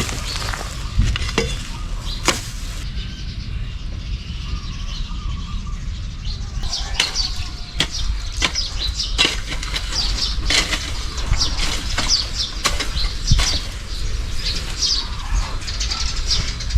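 Small birds chirping in short, repeated high calls from about seven seconds in, over scattered sharp clicks and knocks and a steady low rumble.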